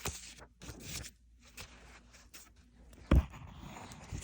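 Paper rustling, as of a book page being turned, with one short dull thump about three seconds in.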